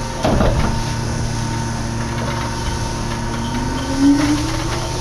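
Yukarigaoka Line people-mover car pulling away from a station, heard from inside: a clunk near the start, then the traction motor's whine rising steadily in pitch as the car accelerates, over a steady running hum.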